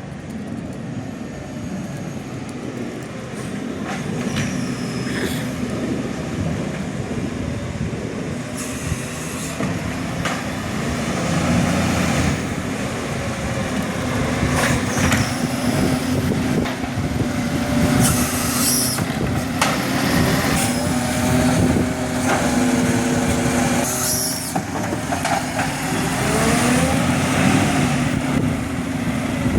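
Garbage truck running, its diesel engine drone slowly growing louder, with several short sharp air hisses and a brief whine in the middle of the second half.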